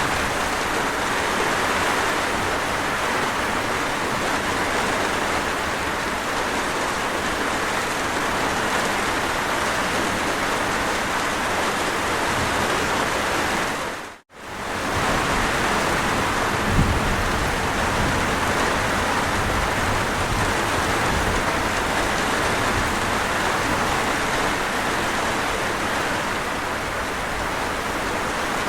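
Steady rain falling, an even hiss. About halfway through it dips to silence for an instant and swells back, and a couple of seconds later there is a brief low thump.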